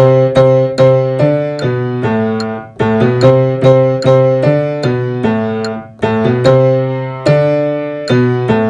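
Piano playing a slow hymn-like chord progression, with a new chord struck about every half second to second. Each chord rings and fades, and there are brief lulls about three and six seconds in.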